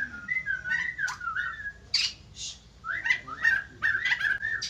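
White-crested laughingthrush singing: quick runs of short, clear whistled notes that slide up and down, with a couple of short harsh calls about two seconds in.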